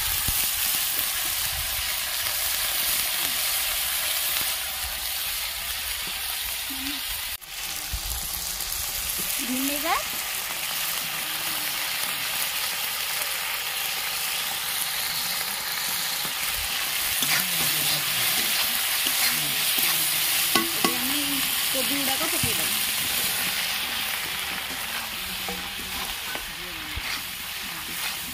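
Chopped onion and capsicum sizzling in hot oil in a kadai, with a steel ladle stirring and scraping against the pan. There is a brief break in the sizzle about seven seconds in.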